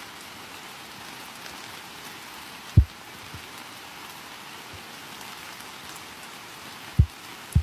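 Steady rain falling, an even hiss, with a few short, loud low thumps: one about three seconds in and two close together near the end.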